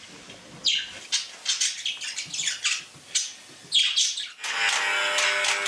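A bird giving several short, high-pitched calls, each sweeping down in pitch. Music comes in about four and a half seconds in.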